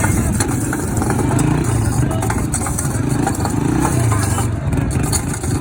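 A car engine running, swelling and easing a few times, over the noise of a crowd.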